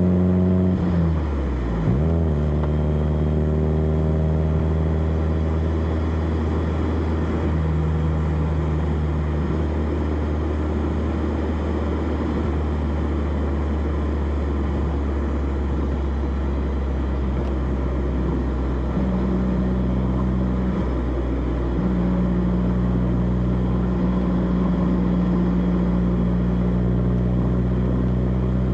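Exhaust of a 1991 BMW E30 316i's 1.6-litre four-cylinder engine while driving, heard close up at the rear of the car. About a second in the engine note falls sharply, with a brief blip, then holds a steady cruising note over tyre and road noise. It pulls slightly harder about two-thirds of the way through.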